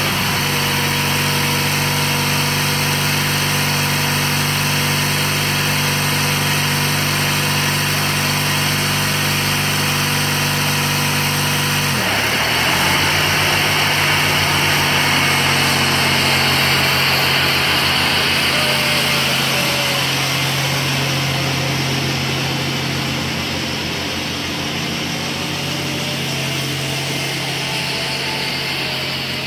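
Briggs & Stratton 14 hp opposed-twin engine of a Bolens garden tractor running steadily. About twelve seconds in its speed dips briefly and recovers, then it keeps running evenly.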